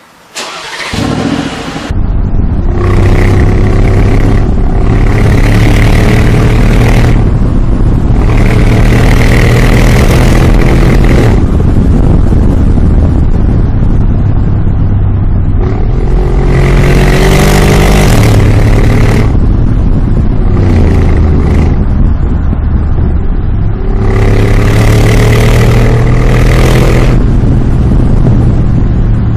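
Mercedes G63 Brabus twin-turbo V8 through its tuned aftermarket exhaust, running loud and blipped through about six revs, each rising and falling, with idle between.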